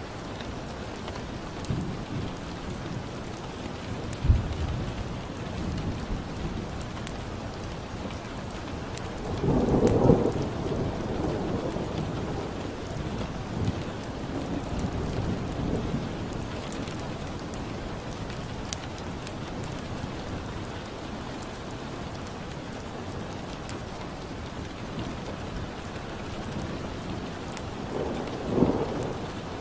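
Steady rain with low rolls of thunder, the biggest about a third of the way in and another near the end, and scattered crackles of a wood fire.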